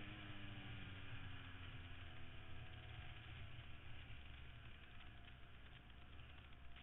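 Motorcycle engine running on the move, its pitch falling slowly over the first few seconds as it eases off, over a steady rushing noise.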